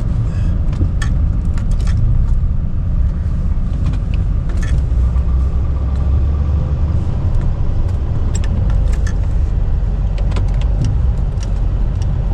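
Chevy K3500 Duramax turbo-diesel V8 pickup running with a steady low rumble, with scattered light clicks and rattles throughout.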